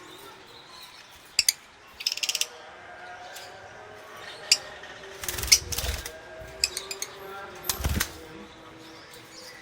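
Caged lovebirds moving about: scattered sharp clicks, a quick rattle about two seconds in, and two longer bursts of wing flapping around five and eight seconds in, over faint chirps.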